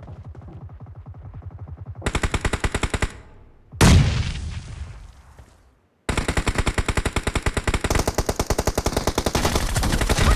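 Video-game automatic gunfire: a quieter stream of rapid shots, then loud machine-gun bursts. About four seconds in comes a single heavy blast that dies away over about two seconds; after a brief silence the loud rapid fire starts again.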